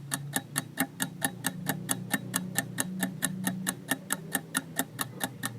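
Countdown-timer clock ticking sound effect, a quick, even tick about five times a second over a faint low hum, marking the time to answer a quiz question.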